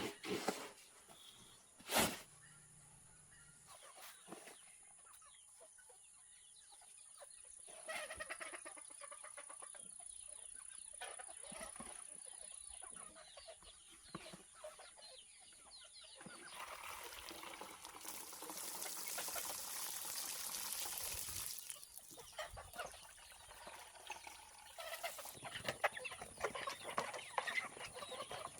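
Chickens clucking on a farm, with two sharp knocks about two seconds apart at the start and a few seconds of hissing noise in the middle.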